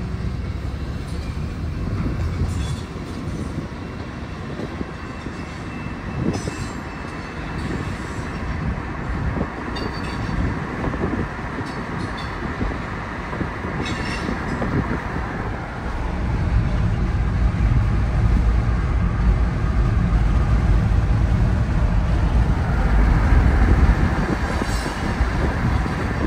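Freight train rolling past, a steady low rumble of wheels on rails with scattered clicks, growing louder about two-thirds of the way through.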